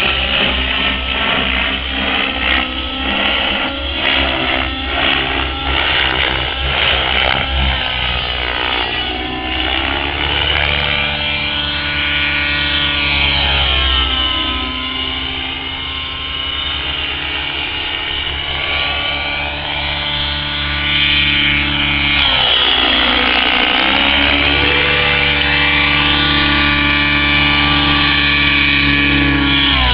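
Radio-controlled model helicopter running, its motor pitch dipping and rising again several times as the throttle changes. It gets louder about three-quarters of the way through.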